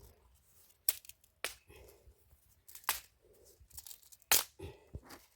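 Dry sticks and brush cracking and snapping, four sharp cracks a second or so apart with faint rustling between them, as thin firewood is handled.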